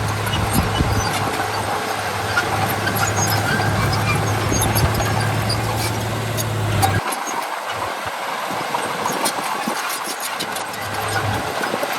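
Heavy diesel earthmoving machinery running, with scattered clanks and rattles. A steady low engine hum cuts off abruptly about seven seconds in.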